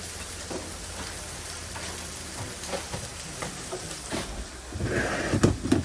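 Burger patties sizzling on a flat-top griddle, a steady rain-like hiss with small crackles. Near the end come a few louder knocks and scrapes of kitchen utensils.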